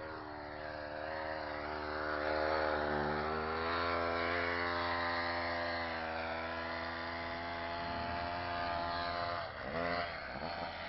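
Homelite chainsaw's two-stroke engine running on with its clutch off, a steady high drone whose pitch climbs slightly in the first few seconds and sags about three-quarters of the way through.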